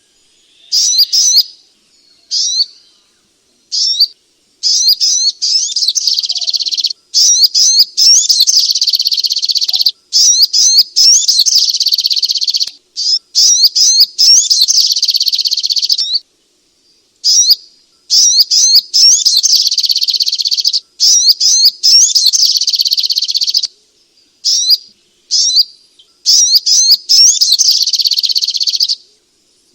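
Sogok ontong bird song: rapid, high chirps and trills in dense runs of a few seconds, broken by short pauses. It is a 'terapi' song recording meant to stir a sluggish bird into singing.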